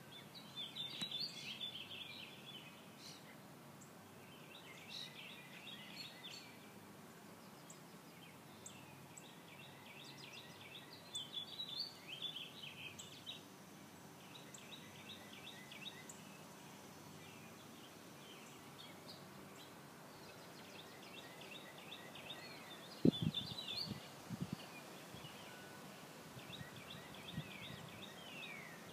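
Songbirds singing in short repeated chirping phrases over a faint outdoor background. A few low thumps come about three-quarters of the way through.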